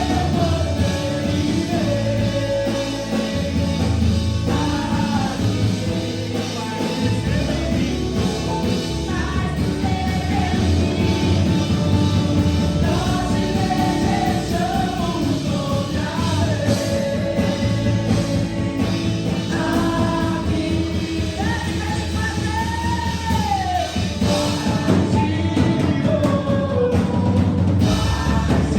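Loud live worship music: a band with bass and drum kit playing under singing, the sung lines gliding up and down.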